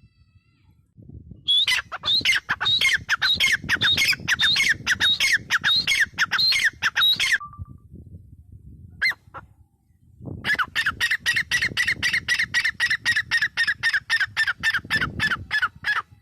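Gray francolin calling: two long runs of rapidly repeated, loud notes at about four a second, the first run of falling notes, the second steadier and lower-pitched, with a short single note in the pause between them.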